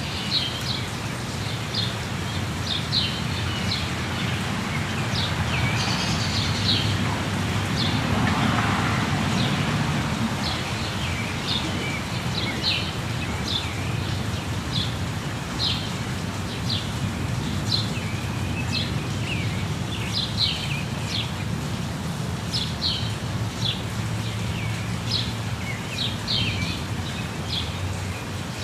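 Songbirds chirping over a steady rush of falling water: short high chirps come again and again, about one or two a second, above an even low rushing.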